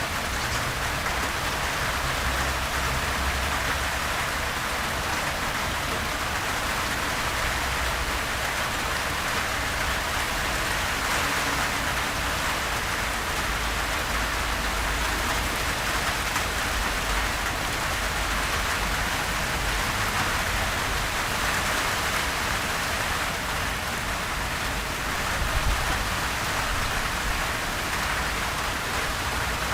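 Steady gentle rain falling and pattering on surfaces, an even hiss with a low rumble underneath and no thunder.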